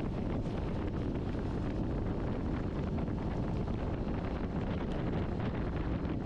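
Steady wind buffeting the microphone on a moving motorcycle, a dense low rumble with no distinct engine note standing out.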